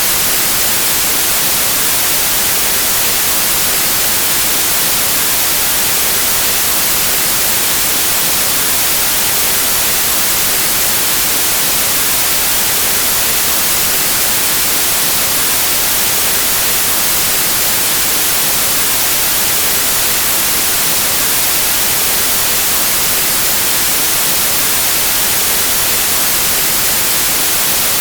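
Steady, unbroken white noise: an even static hiss with no changes, events or tones.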